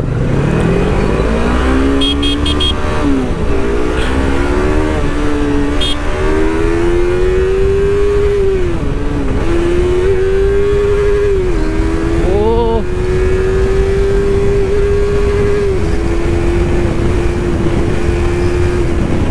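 Yamaha R3 parallel-twin sport bike accelerating hard under full throttle. The engine pitch climbs, drops at each of several quick upshifts, then holds high and steady at speed, with wind rumble on the helmet microphone.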